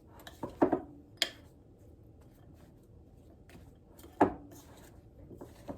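A few sharp knocks of a utensil against a mixing bowl as grated vegetables, flour and salt are mixed, a pair near the start and the loudest about four seconds in, with faint clicks between.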